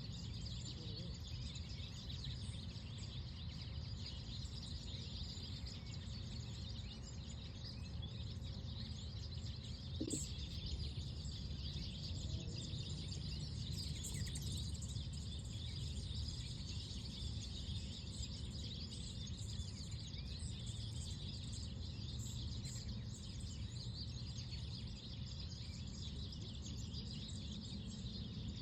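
Small birds chirping and twittering over a steady low outdoor rumble, with a brief tap about ten seconds in.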